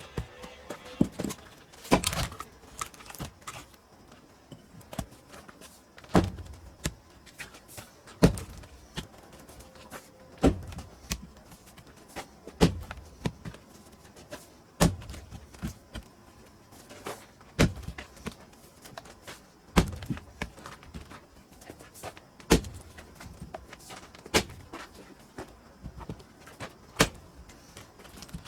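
Heavy strikes splitting pine firewood, one sharp blow about every two seconds, with lighter knocks between the blows.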